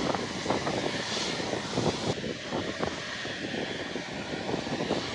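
Boeing 777 jet engines running at taxi thrust: a steady rushing hiss over an uneven, crackly low rumble.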